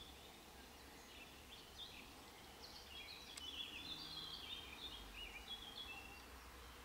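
Faint, high chirping of small birds: a string of short, quick notes, busiest in the middle, over a low background hum.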